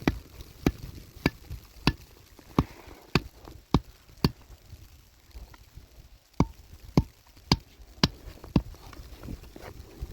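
A hand tool striking over and over in sharp, evenly spaced blows, about three every two seconds. The blows come in two runs with a pause of about two seconds between them.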